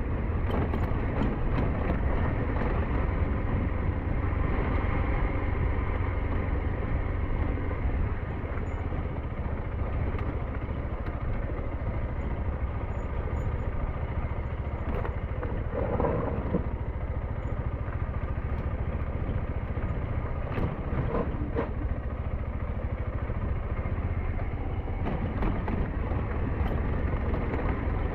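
SYM NH T 200 motorcycle engine running steadily while the bike is ridden, with a dense low rumble throughout and a brief louder patch about halfway through.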